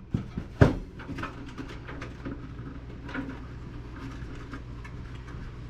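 Computer case parts being handled while dismantling a desktop PC: a sharp knock a little over half a second in, then scattered light clicks and taps.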